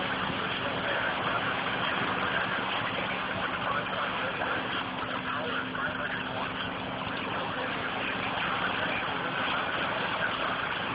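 Boat engine running steadily with a low, even hum, under a constant rushing noise of wind and water.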